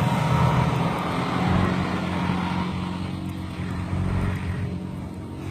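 Heavy truck engine running steadily, growing quieter over the last couple of seconds.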